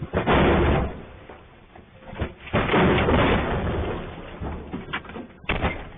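Boulders tumbling down onto a mountain road. Three loud bursts of crashing noise: one just after the start, a longer one in the middle, and a short one near the end.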